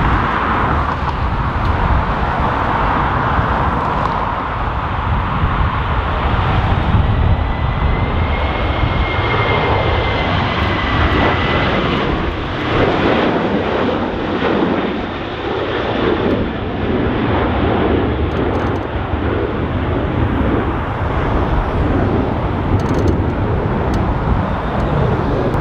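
Ryanair Boeing 737's jet engines at high thrust as it climbs away in a go-around, a thin whine standing out about a third of the way in. The sound then swells and fades in gusts.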